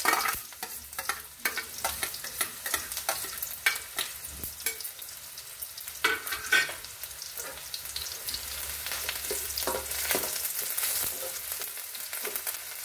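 Chopped onion, garlic and green chilli sizzling in hot oil in a kadhai, fried to brown. A steel ladle scrapes and clinks against the pan and bowl many times, with a loud sizzle right at the start as the onion goes in.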